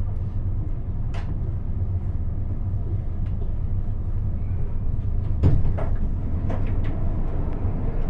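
Inside a CAF AS-14 metro car standing at a station platform: a steady low hum from the stationary train, with a sharp click about a second in and a few scattered knocks and clicks between five and seven seconds in.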